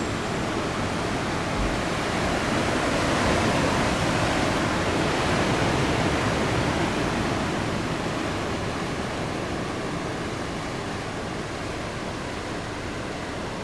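Heavy surf from a big typhoon swell: a steady rush of breaking waves that swells about two seconds in and eases slowly over the following seconds.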